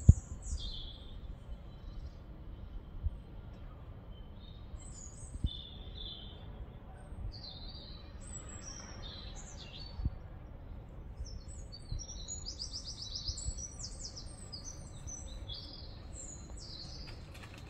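Wild birds chirping nearby: short, high calls scattered throughout, coming faster about two-thirds of the way in, with a quick trill. Under them is a low rumble with a few brief knocks.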